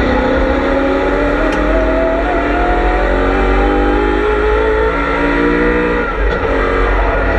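BMW M3 E92's V8 engine under race load, heard on board the car, its pitch climbing slowly as it pulls through a gear after a change right at the start. There is a brief dip about six seconds in.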